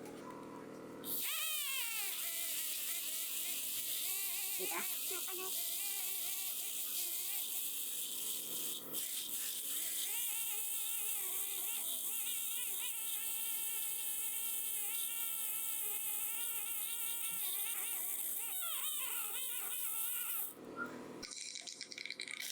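Dental equipment running during a tooth restoration: a wavering, whistling whine over a steady high hiss. It starts abruptly about a second in and cuts off near the end.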